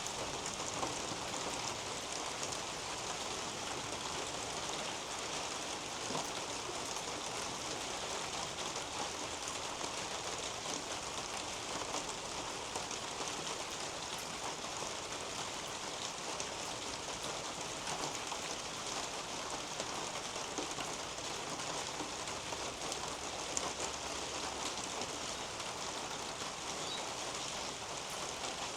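Steady rain falling on garden leaves and a roof overhead, with a dense scatter of single drops ticking throughout.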